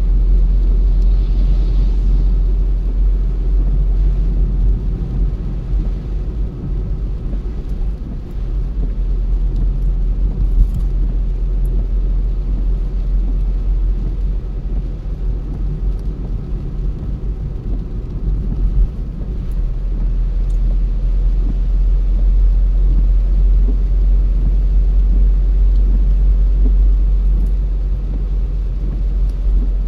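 A car driving along at a steady pace: a continuous low rumble of road and engine noise.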